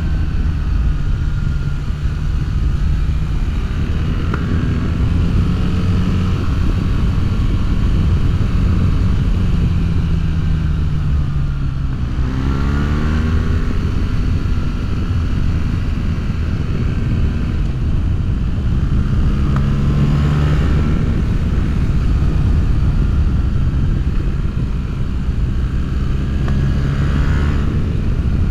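BMW R1300GS boxer-twin engine through an Akrapovic full exhaust system with decat mid-pipe, heard while riding. The pitch rises and falls with throttle and gear changes, with a hard rise in revs about twelve seconds in and shorter pulls near the end.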